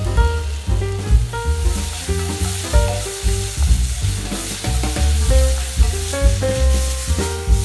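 Food sizzling and being stirred in a pan over a campfire, frying fried rice, under background music with a walking bass line and distinct notes.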